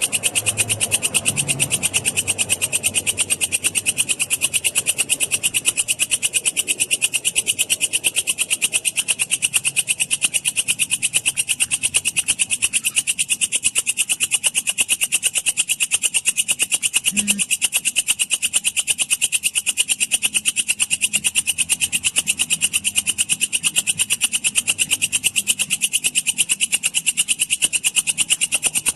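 Walang kecek katydid (bush cricket) stridulating: a steady, high-pitched train of rapid, evenly spaced chirps that runs on without a break.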